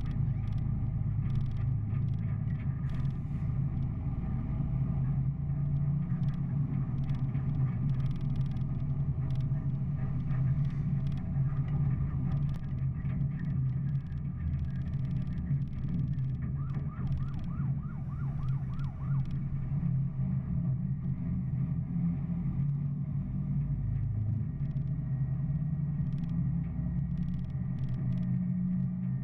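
A steady engine-like drone, running evenly, with a brief flurry of quick rising chirps a little past the middle.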